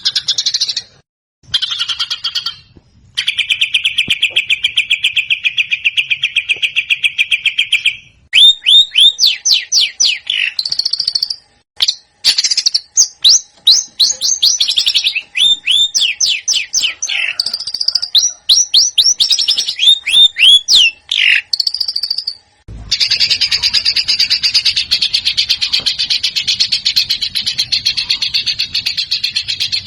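Songbird recordings spliced together: a fast even trill for about five seconds, then loud quick series of sharp downward-sweeping whistled notes, then a dense, continuous chattering song. Each section starts and stops abruptly at an edit.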